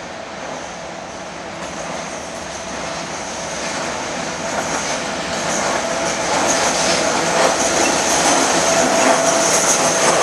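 Container freight train hauled by a Slovenian Railways class 363 electric locomotive, coming closer and growing steadily louder. It carries a steady high-pitched tone, and from about halfway a rapid clatter of wheels over rail joints and points.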